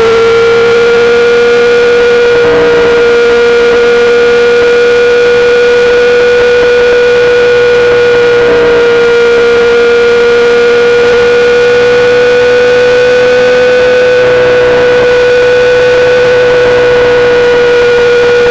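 2008 Yamaha R6's inline-four running through a full SC-Project exhaust at a steady engine speed, cruising with a loud, even drone that holds one pitch throughout.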